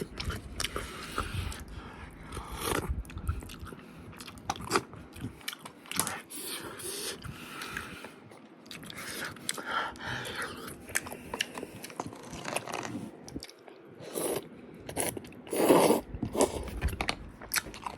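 Close-miked eating: a person biting and chewing steak and rice cakes in a creamy pollack roe sauce, with many small wet mouth clicks. Two louder mouthfuls come near the end.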